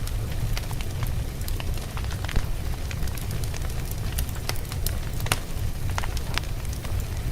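Wood fire of burning logs in a fireplace, crackling and popping at irregular moments over a steady low rumble of the flames, with one louder pop about two and a half seconds in.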